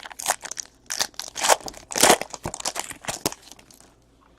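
A 2016 Panini Elite Extra Edition Baseball card pack being torn open, its wrapper crinkling and crackling in quick irregular bursts that die away near the end.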